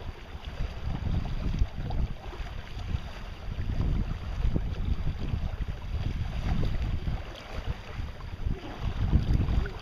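Wind buffeting the microphone aboard a sailboat under way, in uneven gusts, over a steady hiss of rushing water.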